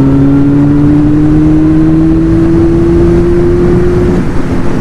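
Kawasaki Z900's inline-four engine with an aftermarket exhaust pulling in one gear, its pitch rising slowly and steadily, then easing off about four seconds in.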